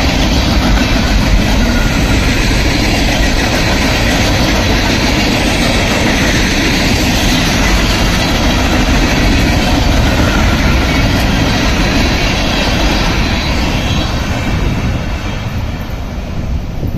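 Steel wheels of a freight train's open-top container cars rolling past on the rails, a loud steady rolling noise that eases near the end as the last cars move away.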